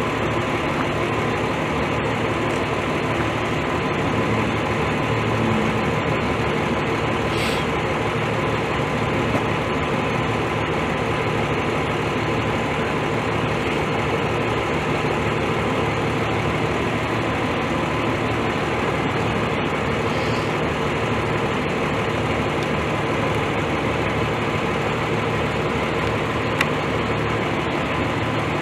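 A heavy engine idling steadily, a continuous drone with a thin steady whine on top.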